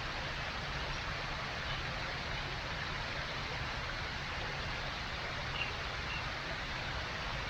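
Steady background noise, a low rumble under an even hiss, with a few faint short high chirps in the second half.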